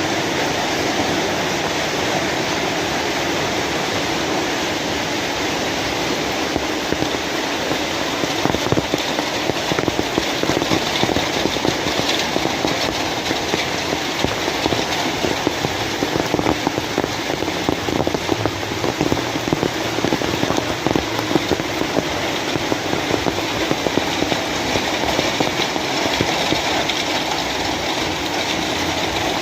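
Steady rain falling, a dense even hiss of water, with individual drops splashing more sharply from about eight seconds in.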